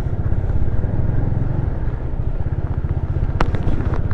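Motorcycle engine running at low speed with a steady pulsing rumble, and a single sharp click about three and a half seconds in.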